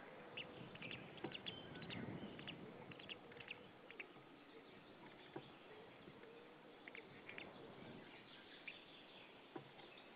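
Faint, scattered short bird chirps over a steady hiss, with a few soft clicks.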